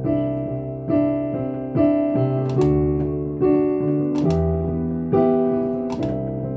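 Piano-voiced keyboard playing the song's instrumental introduction: sustained chords with a bass note, a new chord struck a little more than once a second.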